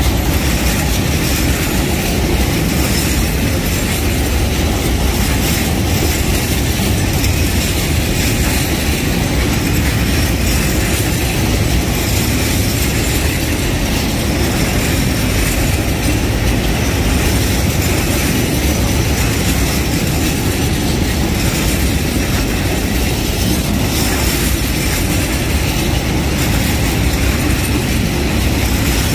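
A train running past on the rails: a steady, loud rumble of wheels on track with some wheel squeal and rail clatter that keeps up without a break.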